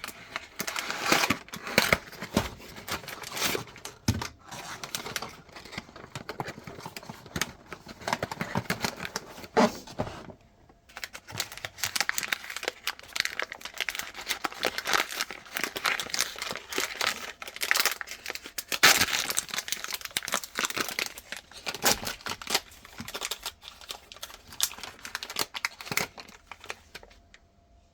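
Plastic ice cream sandwich wrappers crinkling and tearing as they are opened and handled, with a brief pause about ten seconds in.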